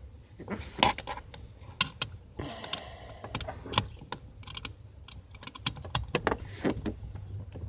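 A screwdriver working a screw behind a steering wheel: irregular light clicks and taps of the tool on the screw and the surrounding housing.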